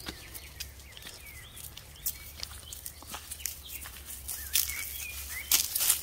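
Small birds chirping in short rising and falling calls, over scattered light clicks. Near the end, a rustling, scuffing noise grows louder.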